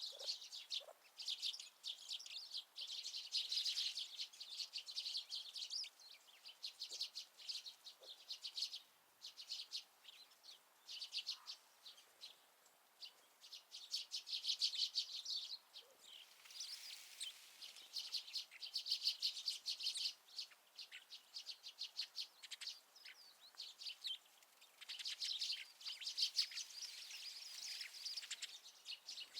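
Small wild birds twittering and chirping in fast, high-pitched chattering bursts that come and go every few seconds.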